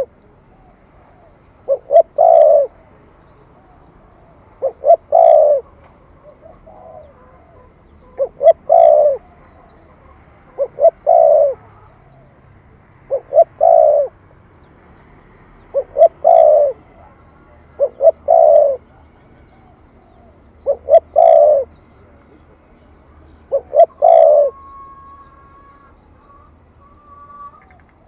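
Spotted dove cooing in the 'thổ thúc gù' style, each phrase two quick short notes followed by a longer drawn note, repeated about every two and a half seconds. It is the coo that keepers play to rouse a decoy dove.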